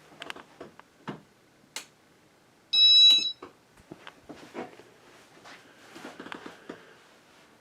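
A single loud, high-pitched electronic beep lasting about half a second, about three seconds in, among scattered light clicks and knocks.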